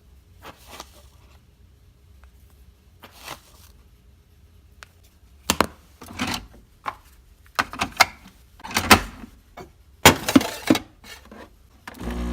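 Kitchen handling sounds of coffee being made: scattered sharp knocks, clicks and clatters, busier in the second half.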